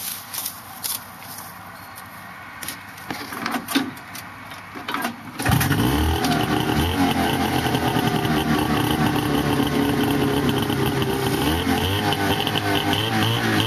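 1980 Kawasaki Drifter 340 snowmobile's two-stroke engine being started after summer storage: a few clicks and knocks, then about five and a half seconds in the engine catches and runs steadily with a slightly wavering pitch.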